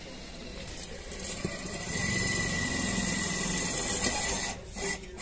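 A motor running with a steady high whine for about two and a half seconds, then stopping.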